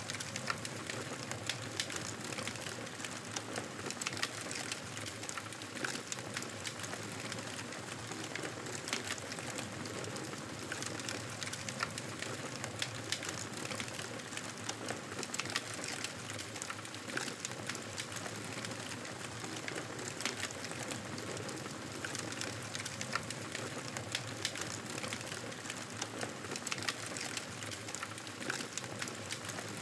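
Campfire burning: a steady hiss of flames with frequent sharp crackles and pops.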